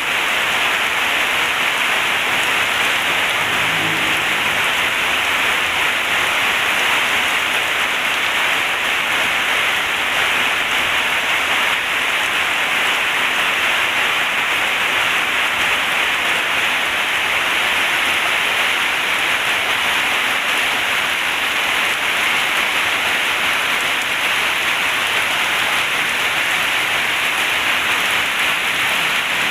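Heavy rain falling steadily, an even downpour hiss with no breaks.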